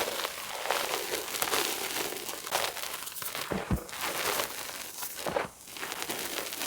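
Reformed gym chalk being crushed: continuous crisp crunching and crackling with many small sharp cracks, and one dull thump a little past halfway.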